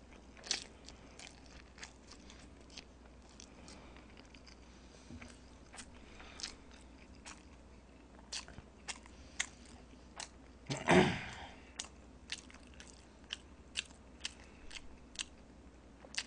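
Close-miked chewing of a mouthful of Chapagetti jjajang instant noodles: scattered short mouth clicks, with one louder half-second sound about eleven seconds in.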